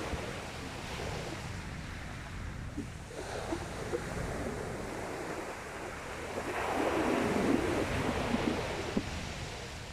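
Sea waves washing onto a shingle beach, with a louder wave surging in about two-thirds of the way through and then easing off. Wind rumbles low on the microphone under the surf.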